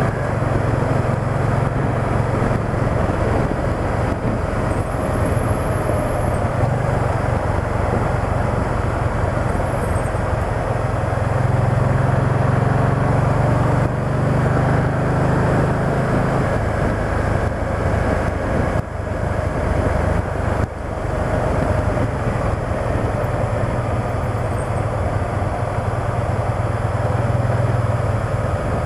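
Can-Am Spyder three-wheeled motorcycle's engine running under way, with wind and road noise over the microphone. Its low drone swells and eases, with two brief dips about two-thirds of the way through.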